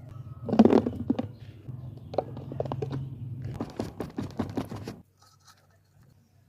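Olives being handled or worked: a run of crunching and scraping knocks, stopping about five seconds in.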